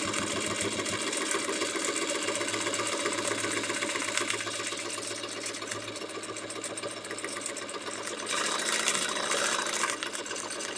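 Sewing machine stitching continuously at speed while free-motion quilting, the needle going up and down in a fast steady patter. It gets louder for a couple of seconds near the end.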